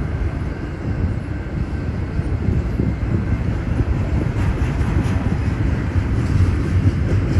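Intermodal container train rolling past: a steady low rumble of railcar wheels on the rails, with faint rattling and clicks from the cars.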